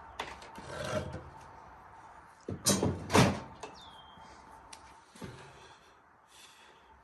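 Wood being handled and scraped: irregular rubbing and scraping, with two louder scrapes about three seconds in and a softer one a couple of seconds later.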